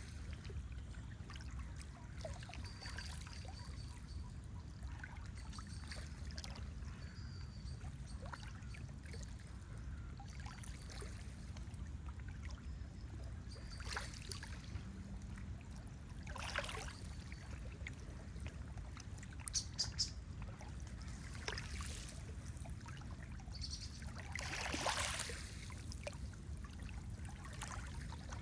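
Lake water lapping and splashing over a steady low rumble, with scattered small splashes and a louder splash about 25 seconds in.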